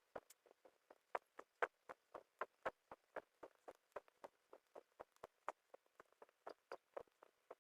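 Quiet, quick, uneven tapping, about three to four taps a second.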